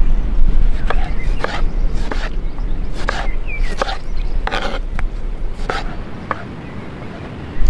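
A series of irregular knocks and clicks, about a dozen over several seconds, over a low rumble that fades toward the end.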